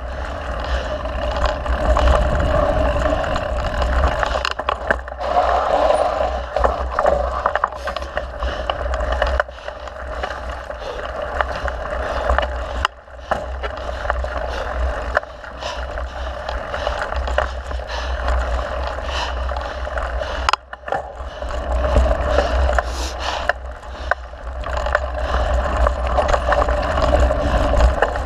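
Mountain bike rolling along a dirt trail: steady tyre noise with rattling and small clicks from the bike, and wind buffeting the microphone. The noise drops out briefly twice.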